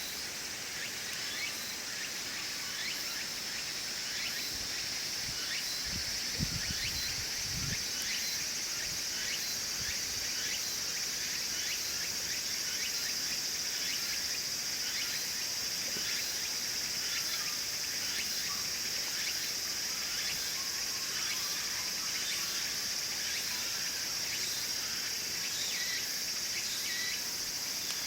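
Wood fire crackling in a wood stove, with small irregular pops, over a steady high-pitched chorus of insects. A couple of low thuds come about six to eight seconds in.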